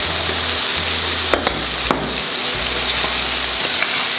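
Chicken pieces and spices sizzling as they fry in a pot, with a steady hiss throughout. Two sharp knocks sound a little past the middle.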